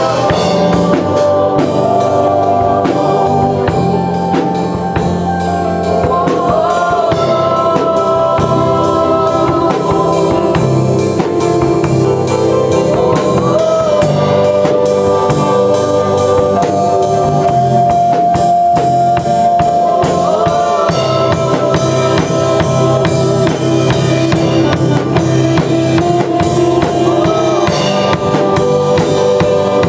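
Live worship band playing a slow instrumental passage: a drum kit keeps a steady beat under sustained chords, with a short melodic phrase coming back about every seven seconds.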